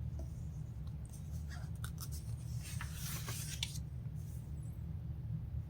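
Paper rustling and sliding as a catalog page is handled and turned: a cluster of short scratchy strokes between about one and four seconds in, over a steady low hum.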